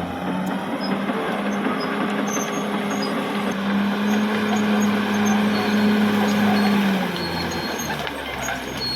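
Caterpillar D6R XL bulldozer's diesel engine working under load, its note held high and steady, then dropping about seven seconds in as the engine eases off. Faint high squeaks sound over the engine.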